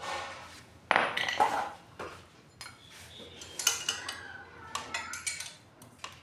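Metal tools and water-pump parts clinking and scraping against each other in irregular strikes, loudest about a second in, with a run of lighter ringing clinks later.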